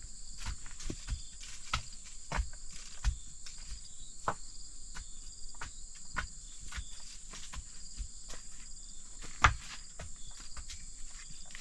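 Steady high-pitched insect chirring, with irregular knocks and taps scattered throughout and one louder knock about nine and a half seconds in.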